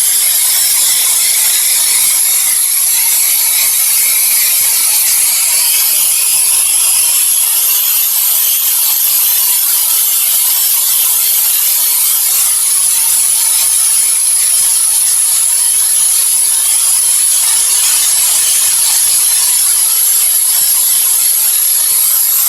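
Steady white noise for sleep: an even, unbroken hiss, strongest in the treble.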